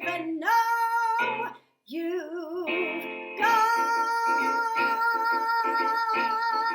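A woman singing with a strummed string instrument, breaking off briefly, then holding one long final note with vibrato over steady strumming.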